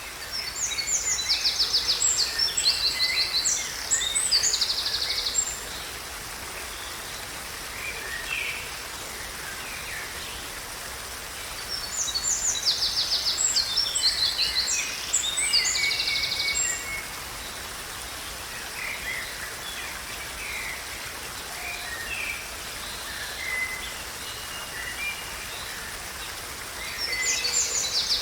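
A songbird singing long phrases of rapid, high trills and notes, three times, with softer bird calls in between, over a steady hiss of background noise.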